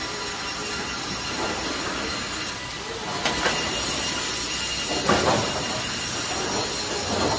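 Automatic timber-processing machinery running, with a continuous mechanical noise and a steady high whine. A few sharp clacks come about three seconds in and again about five seconds in.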